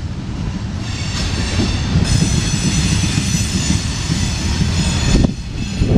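Loaded coal hopper cars of a CSX freight train rolling past with a low rumble and wheel clacks. About a second in, a high-pitched wheel squeal sets in, loudest from about two seconds, and cuts off suddenly near the end: wheel flanges squealing as the train rounds the curve from northbound to westbound.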